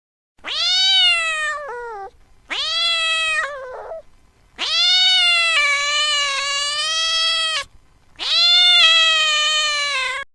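A cat meowing four times in long, drawn-out meows, each rising at the start and sliding down in pitch; the third is the longest, about three seconds.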